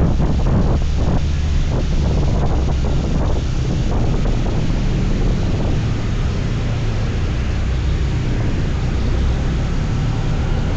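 Steady wind rumble on the microphone of a scooter in motion, with road noise underneath and some uneven buffeting in the first few seconds.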